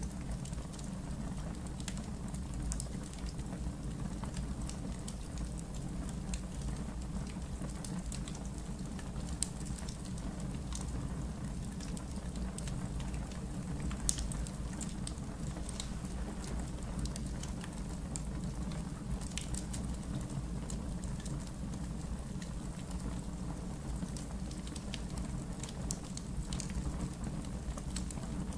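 Wood fire burning in a fireplace: a steady low rumble of flames with scattered sharp crackles and pops from the logs, the loudest pop about halfway through.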